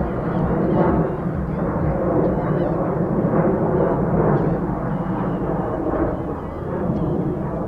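Jet airliner engine noise: a loud, steady rumble that swells and eases slightly, with faint high chirps above it.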